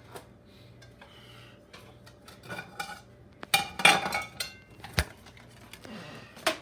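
Plates and kitchen utensils being handled: scattered clinks and knocks of crockery and cutlery, a busier clatter a little past halfway and one sharp knock about a second later.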